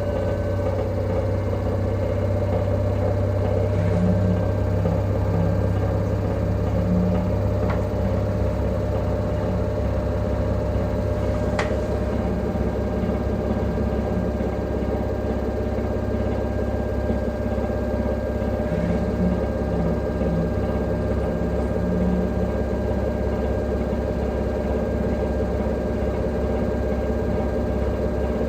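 LG direct-drive washing machine running a spin cycle with a loud, steady hum and whine: the extreme noise during spinning that is the machine's fault. A single faint click about halfway through.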